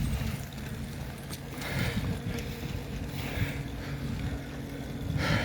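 Motor vehicle running along a road, a steady low engine rumble, with wind buffeting the microphone.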